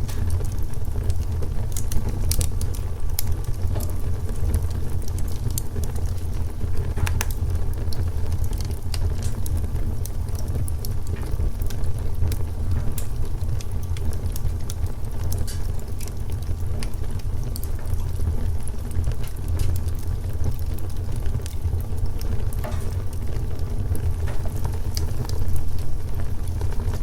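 Wood fire burning: scattered sharp crackles and pops over a steady low rumble.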